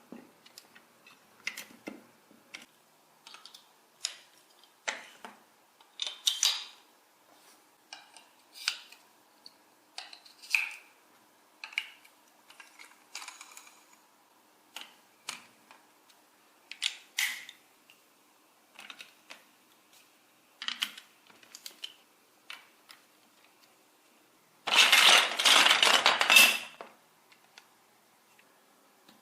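Small hard pieces handled on a work surface: scattered sharp clicks and taps, a second or so apart, then a loud dense burst of rapid clatter lasting about two seconds near the end.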